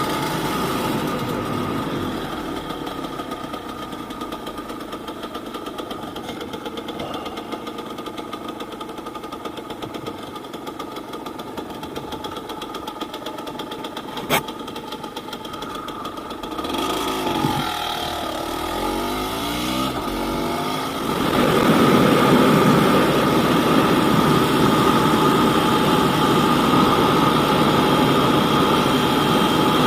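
Yamaha DT200WR two-stroke single-cylinder motorcycle engine running while being ridden: steady at first, revs rising and falling through several sweeps a little past halfway, then louder under harder throttle near the end. A single sharp click about halfway through.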